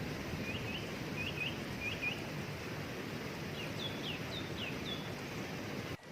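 Steady rush of a waterfall, with a small bird singing over it: three quick pairs of rising chirps, then a few higher, falling notes about four seconds in. The water sound drops out for an instant just before the end.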